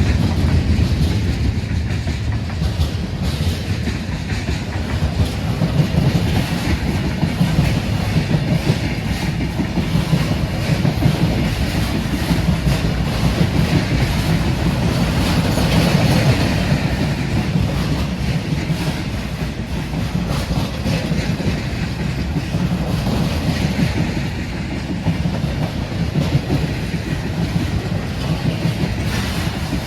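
Freight train rolling past steadily, its car wheels clacking over the rail joints with a continuous rumble.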